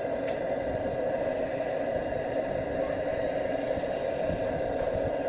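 Pressurised blowlamp burning with a steady hiss, heating the glow head of a Lanz Bulldog's single-cylinder hot-bulb engine before starting; the engine is not yet running.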